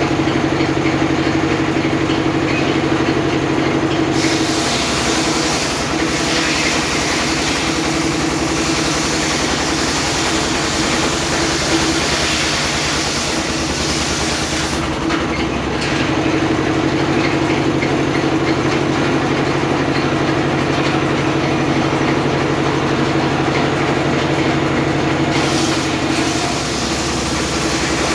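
Homemade circular sawmill running with a steady motor hum; about four seconds in the blade cuts through teak with a loud rasping hiss for roughly eleven seconds, then spins free, with another brief cut near the end.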